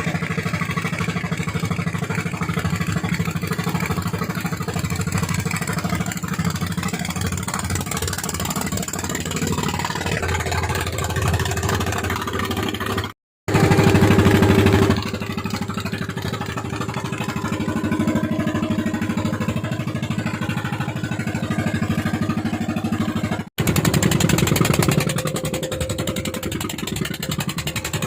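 A fishing boat's engine running hard at full throttle, steady with small rises and falls. The sound cuts out abruptly twice, about 13 and 23 seconds in, and is loudest just after the first cut.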